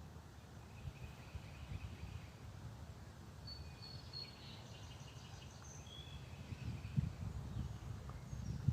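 Songbirds chirping faintly, a scatter of short high calls in the middle, over a steady low rumble that grows louder near the end.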